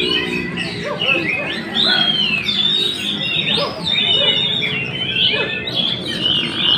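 Oriental magpie-robin (kacer) singing a continuous, varied run of quick whistles and chattering notes that slide up and down in pitch.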